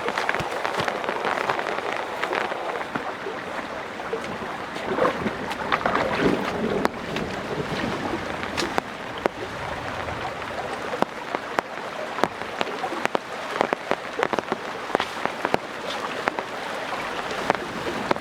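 Heavy rain falling steadily, with many sharp ticks of drops striking a hard surface.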